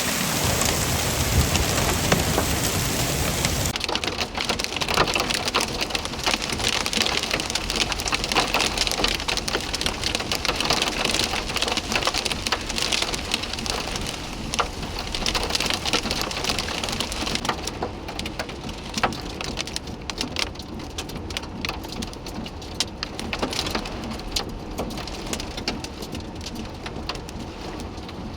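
Heavy rain pelting down in a thunderstorm, a dense hiss full of separate drop hits. It eases off gradually over the second half.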